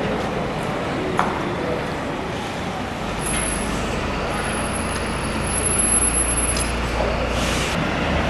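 A heavy vehicle running amid street noise. A deep engine rumble grows about three seconds in, with a thin high whine over it for a few seconds, and a short hiss comes near the end.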